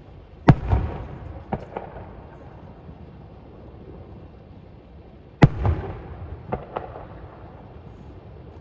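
Fireworks bursting: two loud bangs about five seconds apart, each trailed by a low rumble and a few smaller crackling pops.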